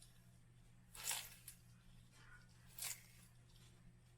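Sulcata tortoise biting and tearing off mouthfuls of romaine lettuce: two short crunching bites, under two seconds apart, over a faint steady low hum.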